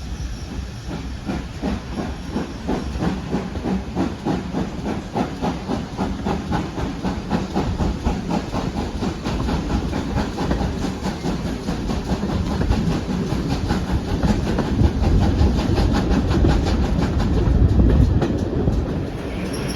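Steam-hauled heritage train running, with a fast even beat and a hiss of steam. It grows louder and heavier over the last few seconds.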